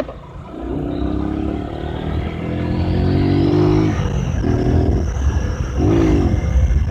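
Honda CG 150's single-cylinder four-stroke engine under way off-road, its revs climbing slowly and easing off twice before a last short rev. Low wind rumble on the microphone runs underneath.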